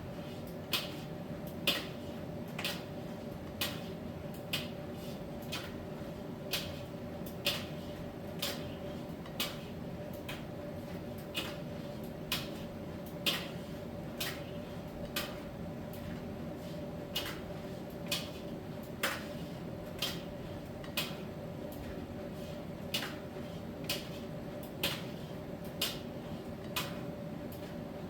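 Miele T1 heat-pump tumble dryer running in its drying stage: a steady hum with a held tone, and a sharp light click about once a second as the load tumbles in the turning drum.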